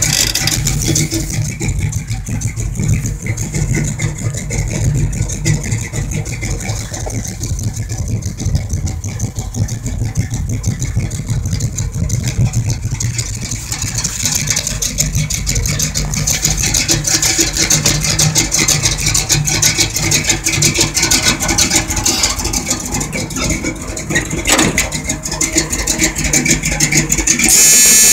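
1984 Chevrolet Monte Carlo SS's engine idling with a steady, deep low rumble, with rubbing and handling noise on the phone's microphone and a loud scrape of it near the end.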